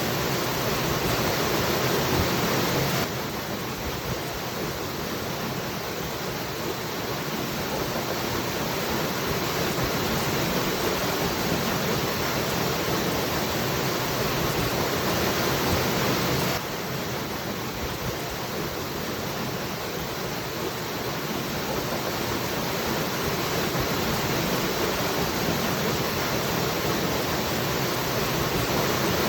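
Waterfall rushing as a steady wash of water noise. The level drops abruptly about three seconds in and again just past halfway, each time slowly building back up.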